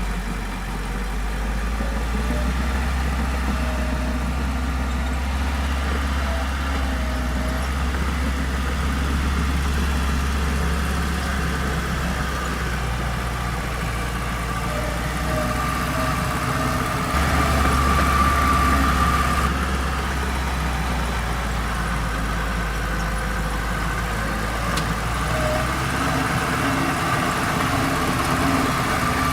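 Heavy diesel earthmoving machinery running steadily, a low engine rumble with a high whine. The sound grows louder for a couple of seconds a little past the middle.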